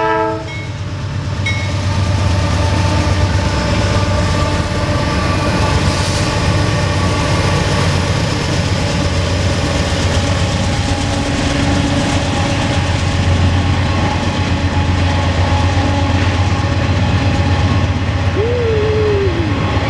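Norfolk Southern mixed freight train rolling past: a steady, loud rumble of the cars with wheels clattering over the rail joints. The locomotive horn cuts off right at the start, and a brief falling tone sounds near the end.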